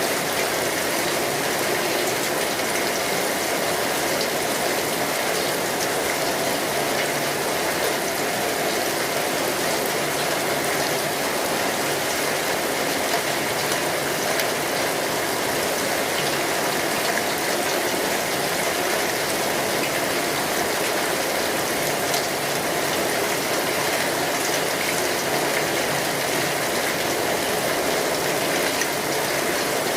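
Steady rainfall: an even, unbroken hiss of many drops with faint scattered patters, holding level throughout.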